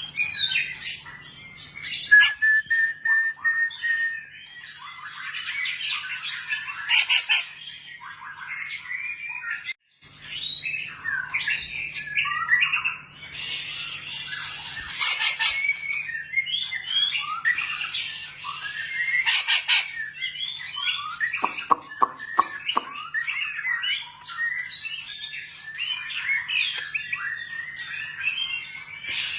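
White-rumped shama (long-tailed shama) singing a long, varied song of clear whistles, rapid chirps and harsh squawk-like notes, with hardly a pause. A faint steady low hum runs underneath.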